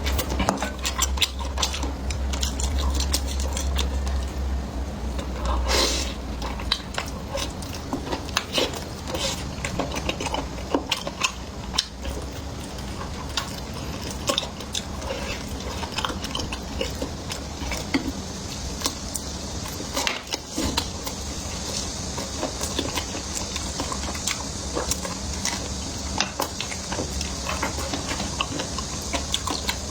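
Close-up eating sounds: food being chewed and bitten, with many short clicks of utensils against dishes.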